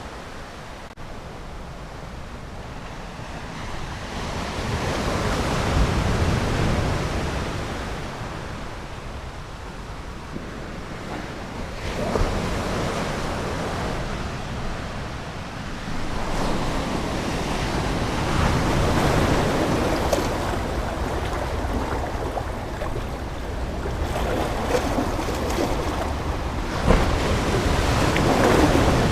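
Ocean waves washing ashore, the surf swelling and falling back every few seconds.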